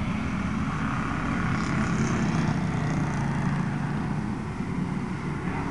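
Pro street car's engine running steadily, a constant low rumble with no revving.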